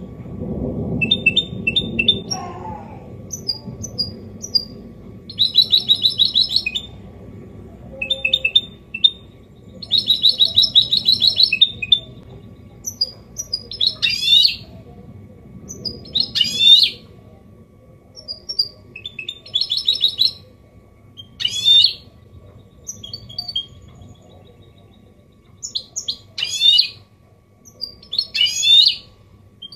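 A goldfinch hybrid (mule) singing a clean song in the 'copia Málaga' style: phrases of fast trills and short chips with several quick up-and-down sweeps, separated by brief pauses.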